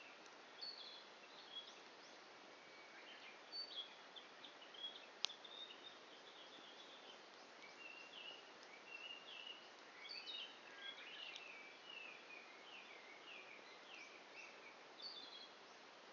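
Small birds chirping in many short, mostly falling notes over a faint steady hiss. About five seconds in there is a single sharp pop from a wood fire burning down to embers.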